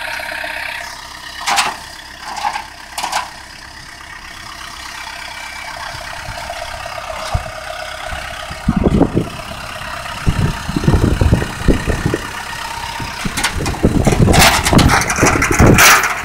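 Vehicle engine idling steadily, with a few sharp knocks in the first few seconds; from about halfway, irregular loud low rumbles and bursts come over it, loudest near the end.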